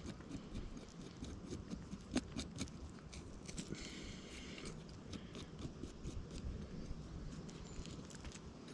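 Footsteps and rustling in wet forest undergrowth, with scattered light snaps and clicks, a sharper one about two seconds in and a brief rustle around the middle.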